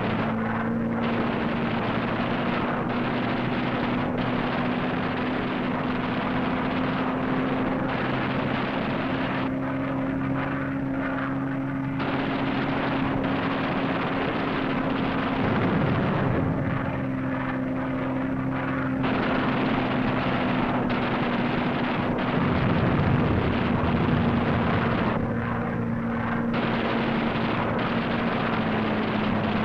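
Piston-engined propeller aircraft droning steadily, its pitch drifting slightly, with two rougher, louder stretches of noise partway through and near the middle of the second half.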